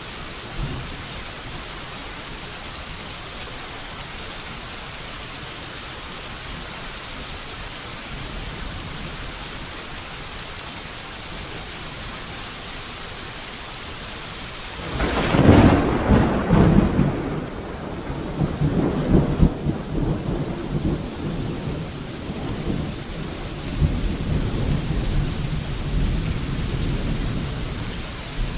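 Steady rain hiss, then about halfway through a loud thunderclap breaks in and rolls on as long, low thunder rumbles that swell and fade several times. Under the thunder the rain hiss turns fainter.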